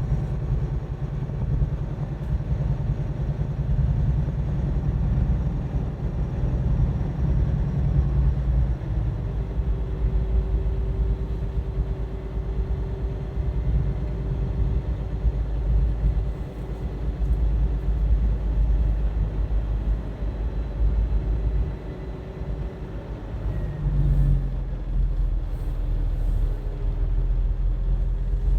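Tractor-trailer on the road: a steady heavy low rumble of diesel engine and road noise. The engine note dips and shifts about three-quarters of the way through.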